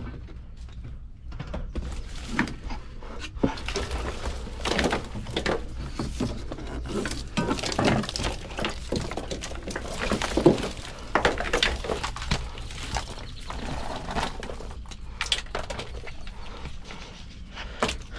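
Irregular clicks, knocks and rustling from handling a truck's wiring harness and its plastic connectors, with one sharper knock about ten seconds in.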